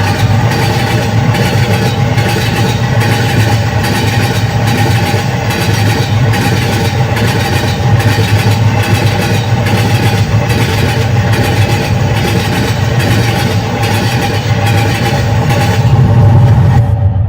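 Train running: a steady low rumble with a regular beat repeating a little faster than once a second.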